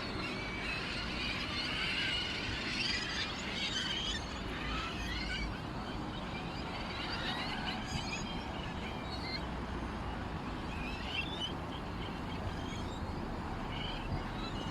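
A flock of small songbirds chirping and twittering, busiest in the first half and thinning out later, over a steady low rumble.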